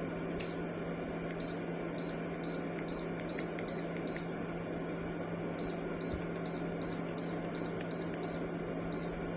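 Ceramic space heater's control panel beeping: a short high beep with each button press as the set temperature is stepped, in two quick runs of about eight beeps with a pause of about a second and a half between them. Under it is the heater's steady fan whir with a low hum.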